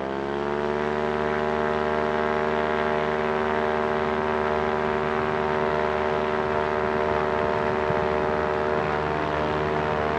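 Water-cooled two-stroke aircraft engine and propeller opened up to full throttle for the takeoff run: the engine note climbs in pitch in the first second, then holds steady at high power.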